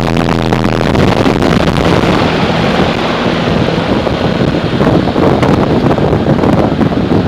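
2007 American Standard heat pump's outdoor unit running: a steady rush of air from the condenser fan, driven by an Emerson fan motor, with the fan blades buffeting the air, over a low hum.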